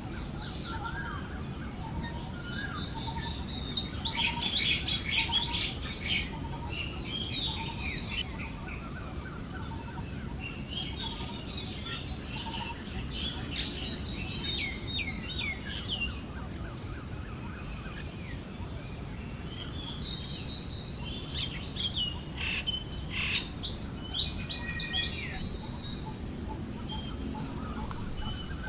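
Forest birds chirping and calling, with busy flurries of chirps about 4 seconds in and again near the end, over a steady high-pitched drone. One soft note repeats about once a second through the first half, above a low breeze-like hiss.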